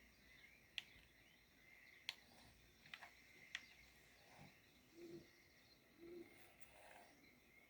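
Near silence: faint outdoor ambience with a few sharp soft clicks and some faint short chirps.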